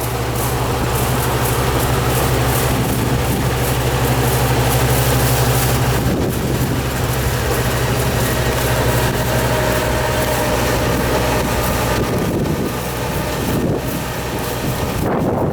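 Yanmar Ee214 combine harvester running steadily, a low engine hum under a broad mechanical noise.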